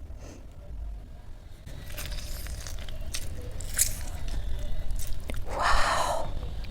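Close-up eating sounds of chole gravy and rice being mixed and eaten by hand: wet squishing and small clicks, then a louder crackling crunch a little before the end.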